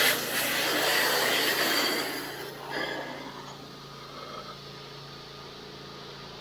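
Pressure-washer spray hissing against the face of a gutter for about two and a half seconds, then shutting off. The pressure washer's engine keeps running steadily underneath.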